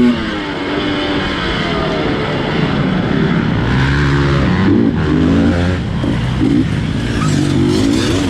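GasGas 250 dirt bike engine under hard riding, revving up and down in a string of short throttle bursts, the pitch rising and falling about once a second in the second half.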